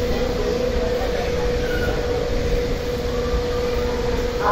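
Express train's coaches rolling slowly out of a station, heard from an open coach door: a steady low rumble with a constant hum held at one pitch.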